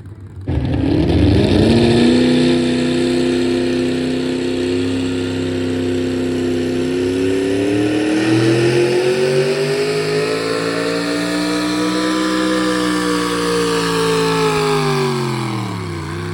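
Pulling vehicle's engine at full throttle under load. It comes in loud and sudden about half a second in, holds a steady pitch, climbs over several seconds, then drops away near the end.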